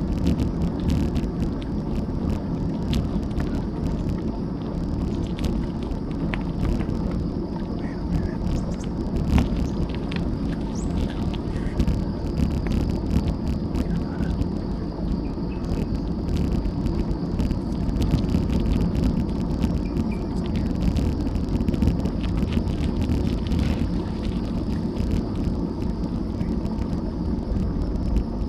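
Steady low rumble of wind and bicycle tyres rolling on the road, heard through an action camera riding on the bike, with scattered small clicks and rattles.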